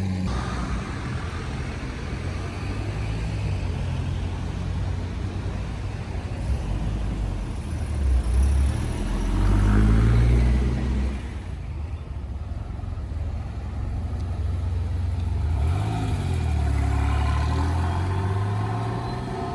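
Car engines on the street: a Bentley Continental, then, about halfway through, a Porsche 911 (993) GT. The engine note rises twice as the cars rev and pull away.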